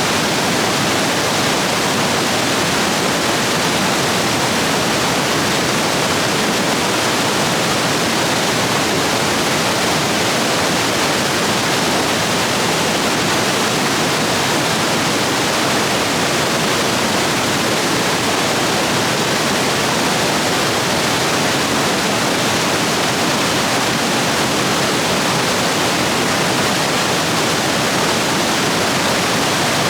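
Rain-swollen river rapids rushing over rocks: a steady, loud, even rush of white water.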